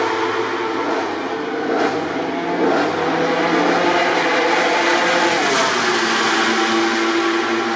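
MotoGP racing motorcycle engines running, their pitch shifting up and down.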